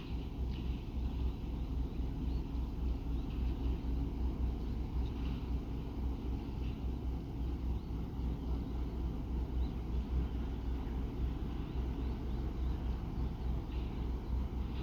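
Steady low rumble of a ferry's engines, with faint short high chirps now and then.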